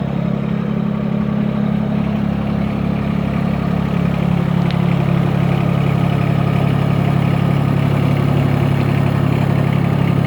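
Mahindra eMAX 20 tractor's three-cylinder Yanmar diesel engine idling steadily.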